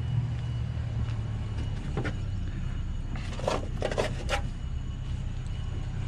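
A steady low engine rumble, like an idling vehicle, runs under a few sharp knocks of handling: one about two seconds in, then a quick cluster of four or five about halfway through.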